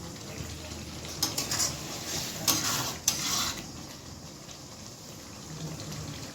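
Food frying in a pan while a metal spoon stirs and scrapes against it, with a few sharp scrapes in the first half.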